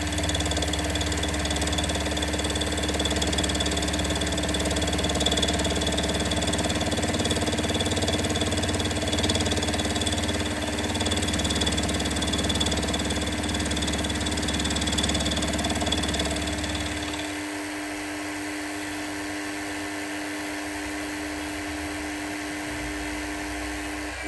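Milling machine running while its cutter takes a single pass across a cast connecting rod. About two-thirds of the way through, the heavier cutting rumble and a high whine drop away as the cut finishes, leaving the machine running more quietly until its hum cuts off near the end.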